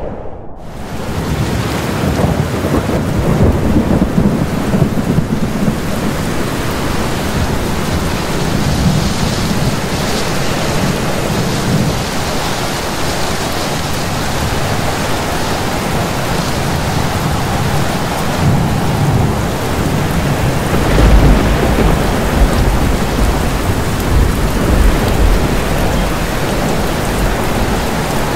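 A thunderstorm: heavy rain falling steadily under rolling thunder, with a deep rumble of thunder swelling to its loudest about three-quarters of the way through.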